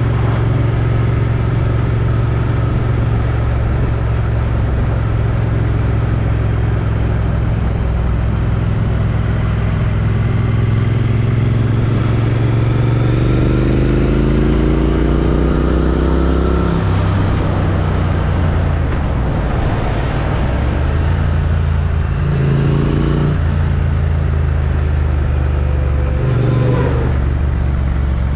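Triumph Street Twin's parallel-twin engine through its stock exhaust, heard from a helmet chin mount while riding, with wind noise over it. It runs steadily, rises in revs about halfway through, then drops in pitch, with two more short rises and drops near the end.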